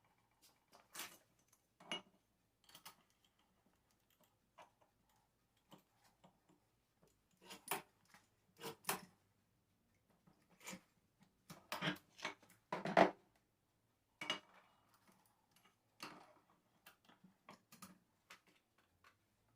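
Irregular metallic clinks and knocks of hand tools and alternator parts being picked up and set down, with the loudest cluster of clanks about two-thirds of the way in.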